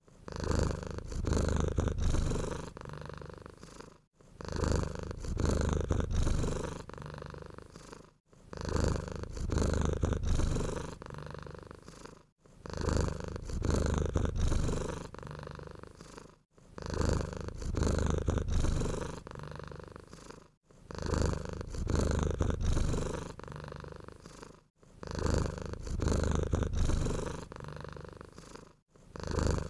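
Domestic cat purring, a low steady rumble. It swells and fades in identical cycles about every four seconds, with a brief drop-out between them, as a short recording looped.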